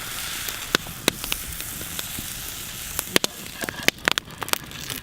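Food sizzling in a pan over a wood campfire, a steady hiss, with the fire crackling in sharp pops that come thick and fast in the last two seconds.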